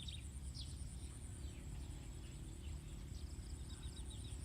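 Rural outdoor ambience: an insect trilling steadily at a high pitch, with a few faint bird chirps and a low background rumble.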